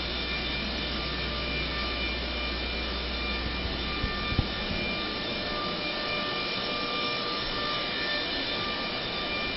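Steady mechanical drone with a faint high whine in it. A low hum fades out about halfway through, and two light clicks come about four seconds in.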